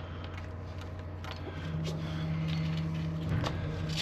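A steady low mechanical hum, with a second, slightly higher hum joining about one and a half seconds in, and a few light clicks from a plumbing part being handled as it is taken out.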